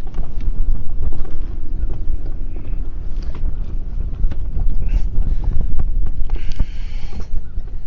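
Wind buffeting the microphone in a steady low rumble, with scattered light knocks and a brief hiss about six and a half seconds in.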